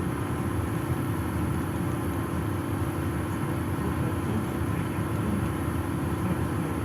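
PAZ-422320-14 Citymax 9 city bus driving, heard from inside the cabin: steady engine and road noise with a constant low hum.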